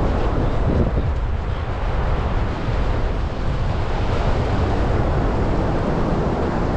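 Wind buffeting the microphone in a steady, rough rumble, with surf washing on the beach behind it.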